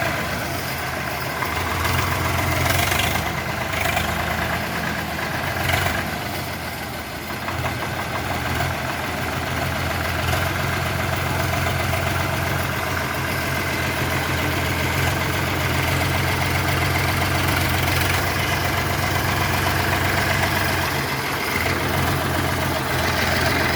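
Swaraj tractor's diesel engine running at a steady speed, easing off briefly about six to eight seconds in.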